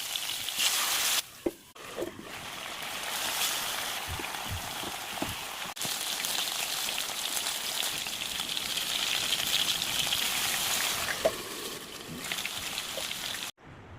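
Chicken sizzling in hot oil: a steady crackling hiss, broken briefly about one and a half seconds in, that stops abruptly near the end.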